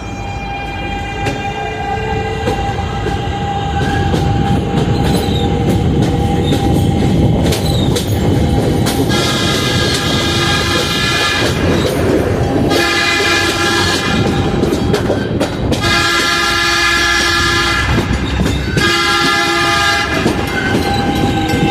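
Train pulling out, its rumble and wheel clatter building over the first few seconds, then its horn sounding four long blasts from about nine seconds in.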